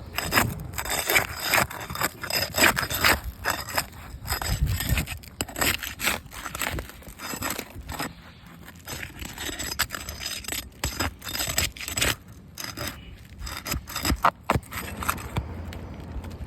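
Irregular scraping and rubbing with many sharp clicks, as of objects being handled and worked on, busiest in the first half.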